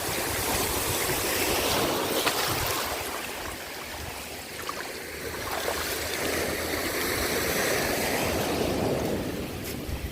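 Small Gulf surf waves washing up and over the shallows at the shoreline, the rushing water rising and falling in two swells.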